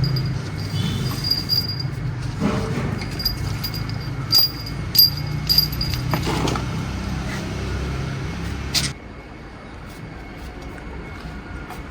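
Car engine running with a steady low rumble, a few sharp clicks in the middle; the rumble drops away about nine seconds in.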